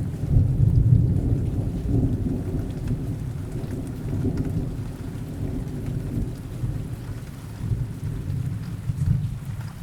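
Rain with a low rolling rumble of thunder that surges a few times and gradually dies away.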